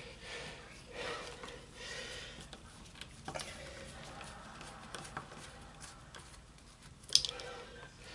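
Faint scraping and a few light clicks of a screwdriver bit working the tight screw that holds a musket's lock plate, with a short, sharp sound near the end.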